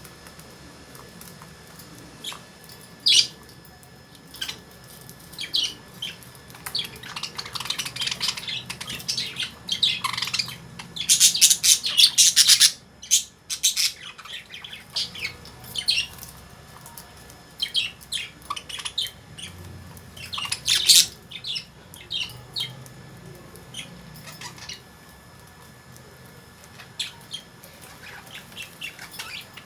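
A flock of caged lovebirds chirping and squawking in short, sharp, high calls, with a loud dense cluster of calls about eleven seconds in.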